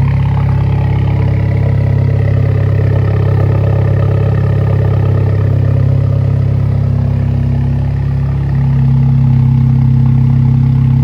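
Alfa Romeo Giulia's 2.0-litre turbocharged four-cylinder idling warm through a newly fitted Madness Monza performance exhaust, a steady low drone. About eight seconds in, the pitch steps up slightly and it gets a little louder.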